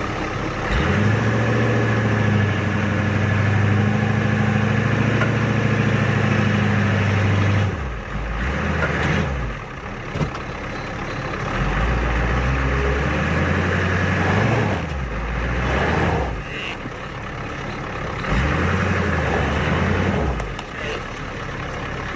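Truck engine revving under load as the truck tries to drive out of the snow it is stuck in: held high for several seconds, then easing off and revving up again several times.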